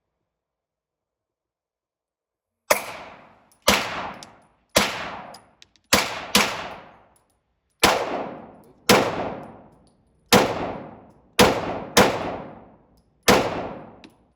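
A string of eleven gunshots fired at a firing range, roughly one a second at an uneven pace, each followed by a ringing echo that fades out over about a second.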